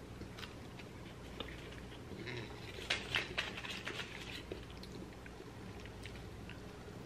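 Faint chewing and small mouth clicks from eating a French fry that turns out soft rather than crunchy, with a few light crinkles from handling foil wrapping, mostly in the middle few seconds.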